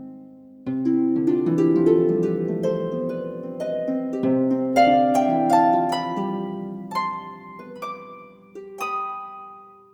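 Background music of plucked, harp-like notes in flowing arpeggios, which start about a second in, thin out in the second half and fade near the end.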